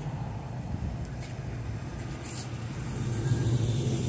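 Engine of a classic American car running at low speed as it drives slowly past, growing louder near the end as it reaches the camera.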